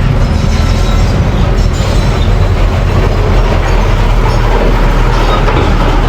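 Mini bulldozer's engine running loud and steady, with a rattling clatter over it.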